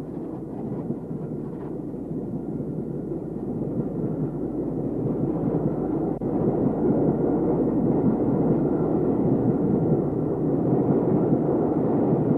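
Steady rumble of a train, growing louder through the first half and then holding steady.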